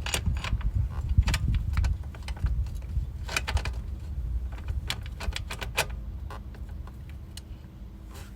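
Scattered sharp metallic clicks and clinks, a dozen or so in loose clusters, over a low rumble that slowly fades.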